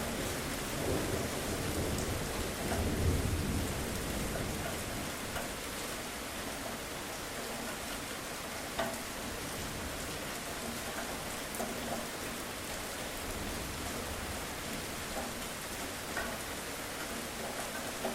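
Steady rain falling, with a low rumble of thunder in the first few seconds that swells and then fades, leaving the rain hiss and scattered sharper drips.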